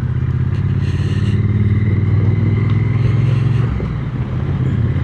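Triumph Speed Twin 900's parallel-twin engine running at a steady pitch under way, with road and wind noise. The engine eases off briefly about four seconds in, then picks up again.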